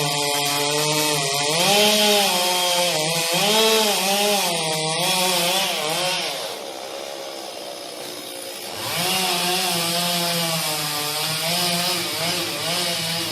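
Chainsaw running under load while cutting through a tree, its engine pitch wavering as the chain bites into the wood. It eases off about six seconds in and revs back up into the cut a few seconds later.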